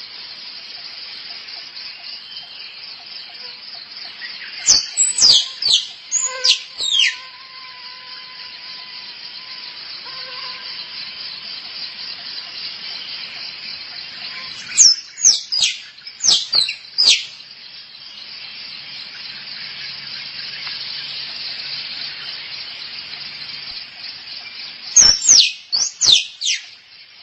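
Tree squirrel calling for a mate: three bouts of about five sharp, falling chirps each, roughly ten seconds apart, over a steady high insect buzz.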